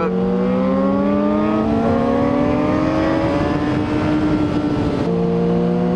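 Honda CBR600RR sport bike's inline-four engine pulling hard, its pitch rising steadily as it accelerates, then dropping sharply at an upshift about five seconds in before climbing again.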